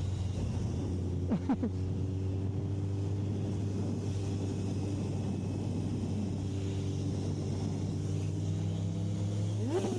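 Suzuki Hayabusa motorcycle's inline-four engine running at a steady cruising speed, a low even hum with no change in revs, heard from the rider's microphone.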